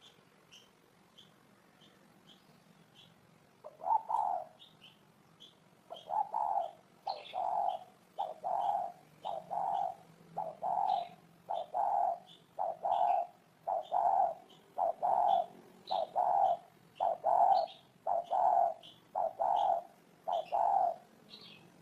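Spotted dove cooing in a steady series of short coos, about one a second, starting about four seconds in. Faint high chirps from a smaller bird repeat throughout.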